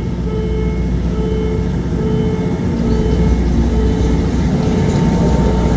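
A train running at the station, a steady low rumble that grows slightly louder.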